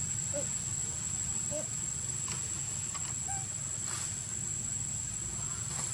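Steady high-pitched insect drone over a low rumble, with a few short, faint squeaky calls and light clicks.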